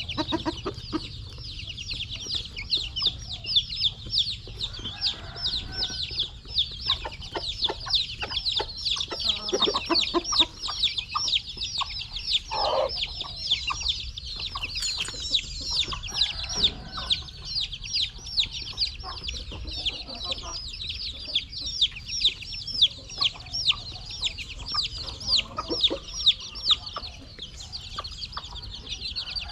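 A crowd of young chicks peeping continuously, many short high downward peeps overlapping, with scattered light taps and clicks underneath.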